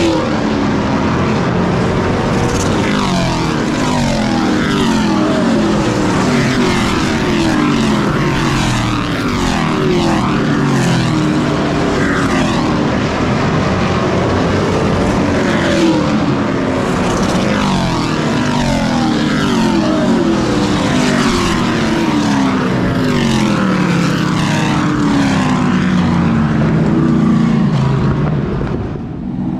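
Race truck engine running hard on a short oval track, its pitch falling and climbing again every four seconds or so. The sound dips briefly near the end.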